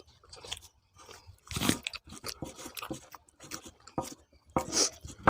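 Close-up eating sounds: chewing and crunching, an irregular run of short crunches and clicks, the loudest about a second and a half in and again near the end.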